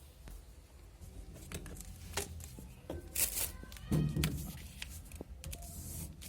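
Handling noise from fitting a washing machine's plastic drain hose: scattered clicks and knocks with rustling, and a short hissy scrape about three seconds in.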